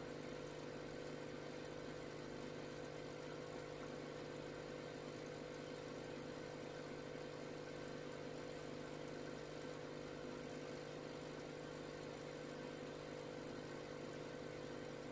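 Steady, unchanging hum of a small motor running.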